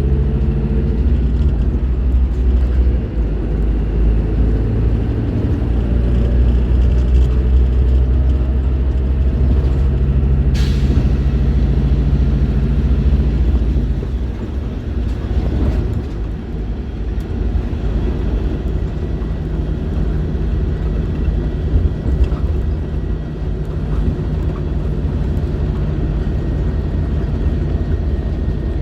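Scania K310IB bus's five-cylinder diesel engine running under load, with one short hiss of air about ten seconds in. About fourteen seconds in the engine note drops and quietens, then runs on steadily.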